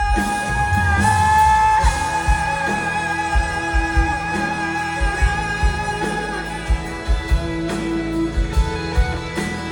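Live rock band playing: drums and electric guitar come in all at once under a long held note, which lasts about six and a half seconds. A steady drum beat and guitar carry on after it.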